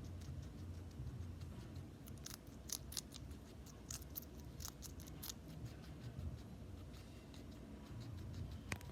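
A small pet crunching red pepper: a run of crisp, snipping bites, most of them between about two and five seconds in, with one more near the end.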